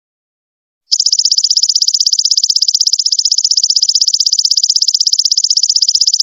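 Golden locust (belalang emas) calling: a rapid, even pulsed buzz of about fifteen pulses a second, high-pitched, starting about a second in and running on without a break.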